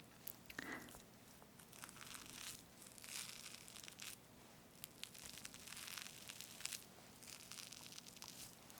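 Whipped cream and soft sponge of a strawberry cream cake being cut through, close-miked: several faint, soft swishing passes with a few light clicks.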